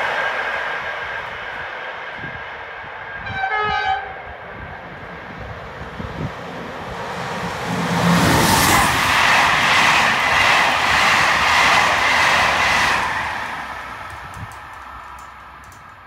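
A short train horn blast about three seconds in, then a train passing at speed: its noise swells from about seven seconds, with a regular clatter of wheels as the cars go by, and fades away near the end.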